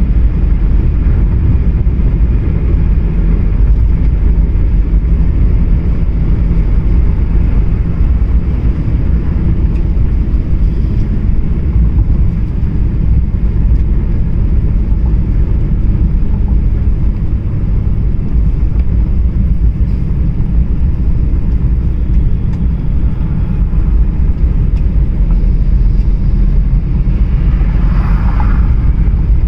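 A car driving, with a steady low rumble of engine and road noise throughout. A brief higher-pitched sound comes near the end.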